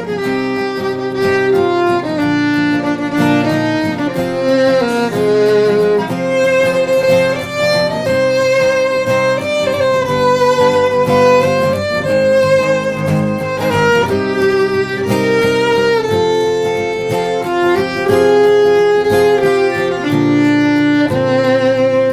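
Violin playing a slow melody of long, held notes with vibrato, over guitar accompaniment: the instrumental introduction before the first verse.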